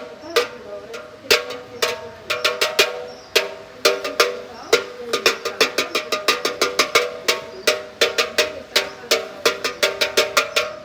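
Belfry bells being struck in a quick, irregular peal, several strikes a second at times, each strike ringing on with a clear tone.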